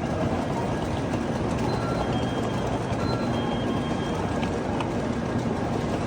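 Steady rumble of a train in a railway station, with a few faint brief high tones over it.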